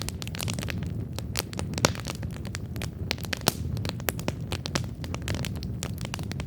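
Wood campfire burning and crackling, with dense irregular pops and snaps over a steady low rumble of the flames.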